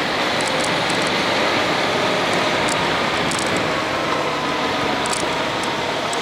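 Honda X-ADV's parallel-twin engine running at a steady cruise under heavy wind rush, as heard while riding.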